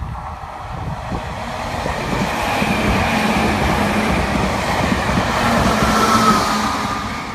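Meitetsu electric train passing, its running noise building to a peak about six seconds in and then falling away, with a steady motor whine on top.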